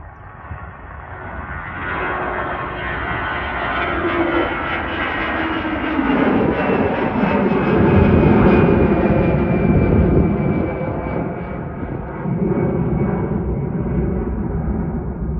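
Airbus A319's twin CFM56 turbofan jet engines passing by. The sound swells to its loudest about eight seconds in, with an engine whine that slides down in pitch as the jet passes. A heavy rumble goes on after it.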